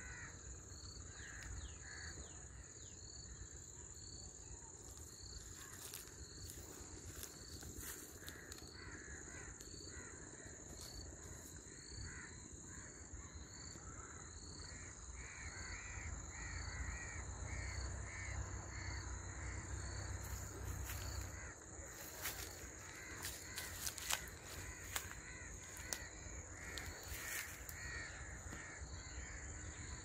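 Birds calling in runs of quick repeated harsh notes, about two a second, several in a row in the second half. A steady high insect whine and a faint chirp about once a second run underneath.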